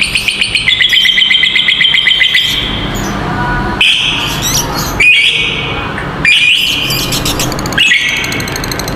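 Lovebirds chattering in a long 'ngekek' trill: a fast, even run of shrill notes for the first couple of seconds, then a string of shorter shrill calls, each starting abruptly.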